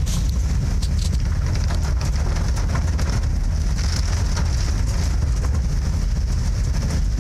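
Vehicle running along a flooded road: a steady low rumble with a steady high hiss of water over it and scattered light ticks.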